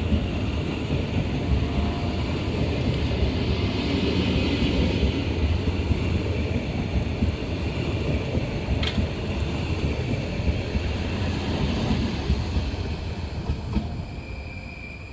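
A train running through the station, a steady noise of wheels on rails that fades away near the end, with a single sharp click about nine seconds in.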